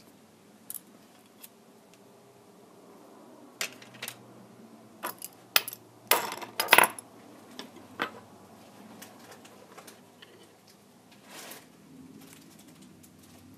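Small tools and tablet parts being handled on a work surface: scattered sharp clicks and clinks, busiest and loudest in a quick cluster about halfway through.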